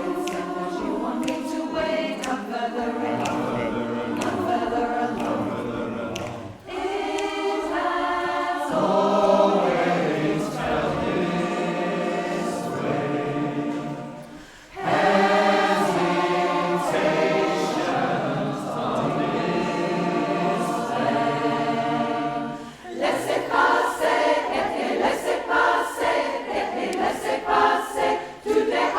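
Mixed community choir singing unaccompanied in harmony, in several phrases with short breaks between them; the last part is sung in shorter, more clipped notes.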